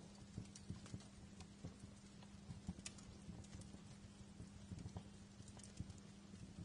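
Wood fire crackling in a fireplace: quiet, irregular small pops and snaps, a few sharper ones, over a low steady hum.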